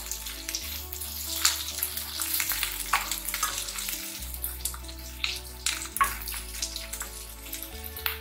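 Potatoes, green peas and onion sizzling in hot oil in a non-stick pan while a spatula stirs them, with sharp scrapes and knocks of the spatula against the pan. Soft background music with held low notes plays underneath.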